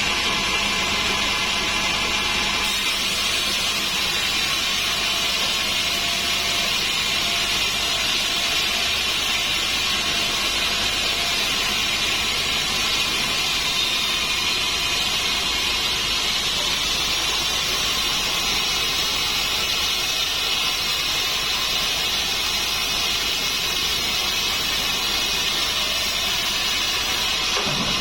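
Sawmill band saw running steadily through a dry acacia log: a continuous high-pitched hissing whine of the blade in the wood over the machine's hum.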